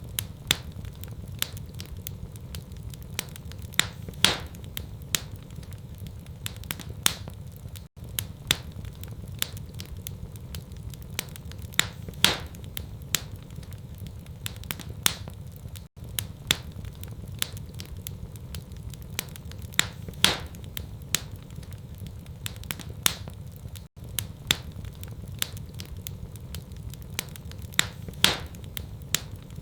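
Wood fire crackling in a fireplace: sharp pops and snaps over a steady low rumble of the flames. The same crackles come round again every eight seconds or so, with a brief dropout at each repeat, as in a looped recording.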